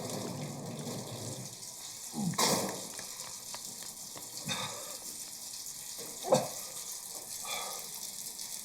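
Food sizzling as it fries in a pan, a steady hiss. It is broken by three short, sharp knocks or clanks, the loudest near the end.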